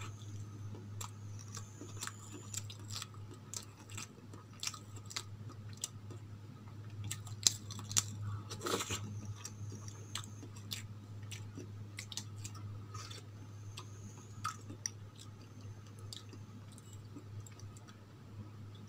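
Close-up chewing and mouth sounds of someone eating soft idli dipped in sambar: many short wet clicks and smacks, with a louder, noisier sound about nine seconds in. A steady low hum runs underneath.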